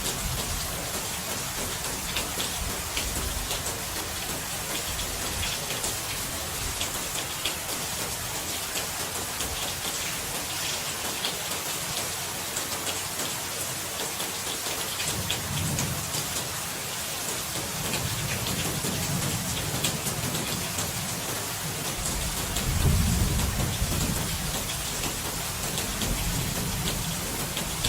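Steady rain with a dense patter of drops, and low rolls of thunder about midway and again near the end, the second one louder.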